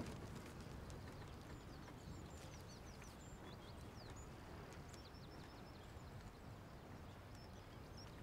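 Faint outdoor quiet: a small bird twittering in short, thin, high chirps over a low, steady background rumble.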